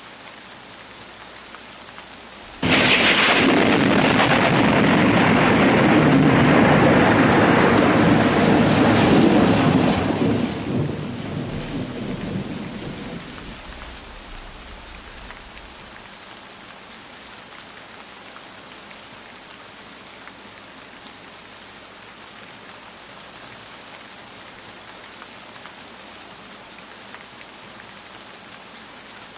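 Steady rain with a clap of thunder that breaks in suddenly about three seconds in. The thunder rumbles loudly for several seconds, then dies away over the next few, leaving the rain alone.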